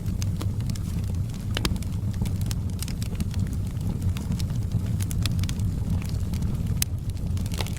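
Wood fire burning: a steady low rumble with frequent sharp crackles and pops at irregular intervals, several a second.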